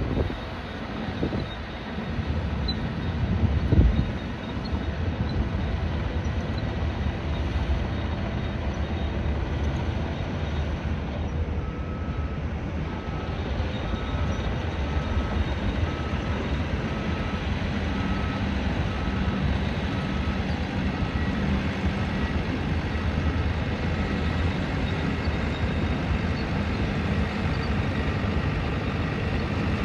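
Heavy construction vehicle's engine running steadily, with a reversing alarm beeping about once a second through the middle stretch. A couple of sharp knocks sound in the first few seconds.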